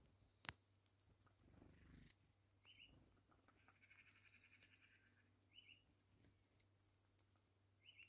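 Faint calls of small birds: short high chirps every few seconds, brief dotted trills and one longer warbling phrase, over a steady low hum, with a single sharp click about half a second in.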